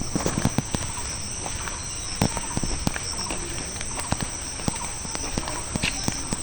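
Footsteps on an asphalt road: irregular sharp slaps and taps, several a second. A steady high-pitched drone of insects runs underneath.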